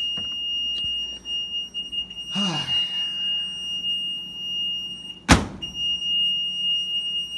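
Maytag Neptune front-loading washer's control panel sounding a continuous high-pitched beep that doesn't stop, the sign of a faulty control panel. A sharp click about five seconds in, with the tone cutting out briefly around it.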